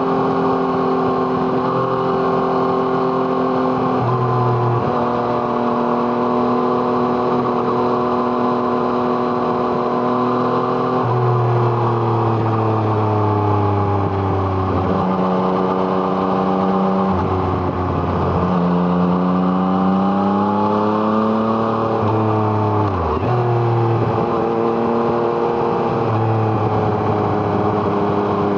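Yamaha MT-09's three-cylinder engine through an Arrow Thunder exhaust, under way on the road. It holds steady revs, then the revs fall away about eleven seconds in. They jump up twice with gear changes and climb again, with a brief sharp dip near the end before settling.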